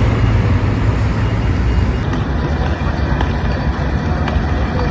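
A loud, steady low rumble with a noisy hiss above it.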